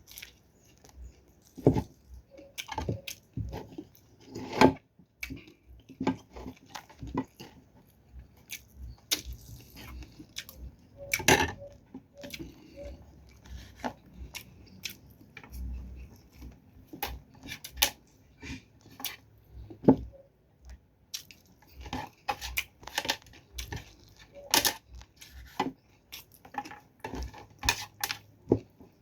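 Close-up eating sounds: chewing fried dried fish, with scattered sharp clicks and knocks against a plate.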